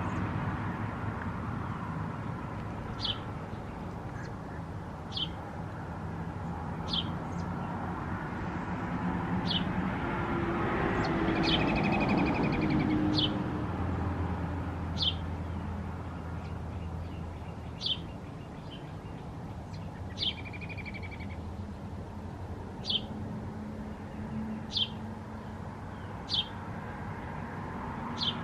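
Small birds chirping: short high chirps repeated every couple of seconds, with a brief buzzy trill twice. A steady low rumble runs underneath and swells around the middle.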